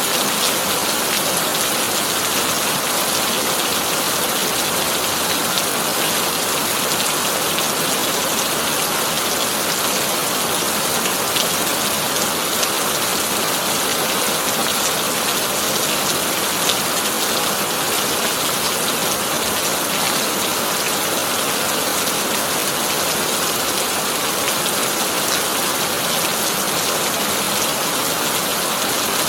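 Heavy rain falling on a corrugated iron (tin) roof: a steady, dense patter of drops with many small ticks and no thunder.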